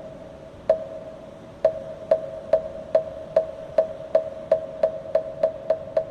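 Moktak, the Korean Buddhist wooden temple block, struck in a run that speeds up steadily, from about one knock a second to about three a second. Each knock rings briefly at one pitch.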